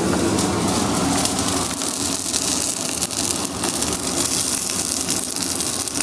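Onions, tomatoes and green chillies sizzling steadily in hot oil in a steel pan.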